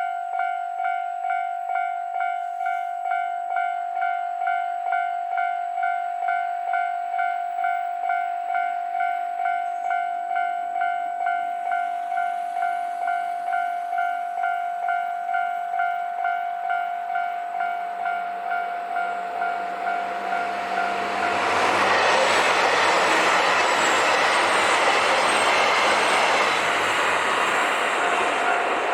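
Japanese level-crossing alarm ringing steadily, about twice a second. Near the end a KiHa 261 series diesel express train rushes through the crossing, its wheels clattering rhythmically over the rail joints and briefly drowning out the bell, which rings on after it passes.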